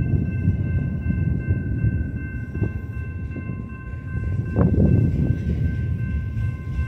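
Long BNSF double-stack container train rolling past: a steady low rumble of the cars with sharp clacks as wheels cross rail joints, about twice. A thin, steady high-pitched tone rings over it throughout.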